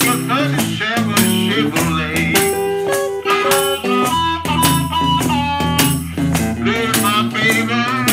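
Chicago blues band playing an instrumental passage: harmonica playing held and wavering notes over acoustic guitar and a washboard keeping a steady beat.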